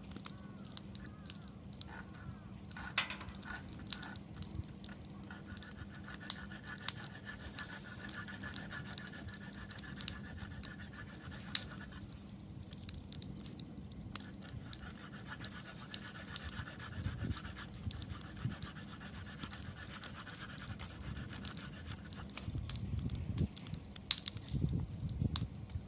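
Wood campfire crackling, with sharp pops scattered throughout. A thin high whistle comes in twice for several seconds at a time, and the fire's low rushing grows louder near the end.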